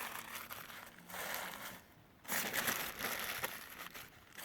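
Newspaper being crumpled and handled, a crinkling rustle in two stretches with a short pause about two seconds in.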